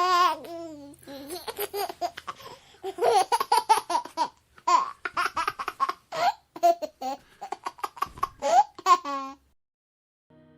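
A baby laughing hysterically in a long run of short, rhythmic bursts, opening with a wavering high squeal. The laughter stops about nine seconds in.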